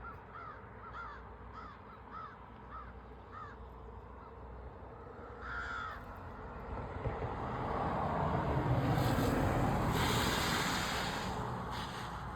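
Crow cawing in a quick run of short calls, about two a second, then one louder caw about five and a half seconds in. In the second half a broad rushing noise swells and fades, loudest about ten seconds in.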